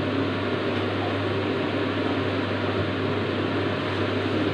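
Steady mechanical hum with an even rushing noise.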